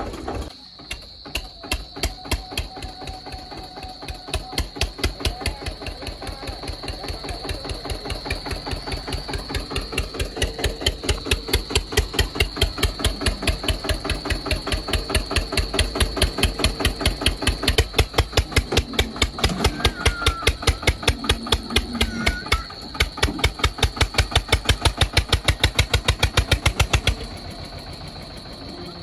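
Tractor's diesel engine chugging hard under load while trying to tow the stuck SUV, its rapid, even exhaust beats growing louder over the first ten seconds, then cutting off abruptly near the end.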